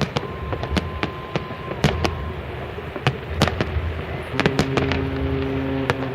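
Fireworks display: sharp bangs and crackles going off at irregular intervals, with a thin whistle for the first second or two. A steady low droning tone joins about four seconds in.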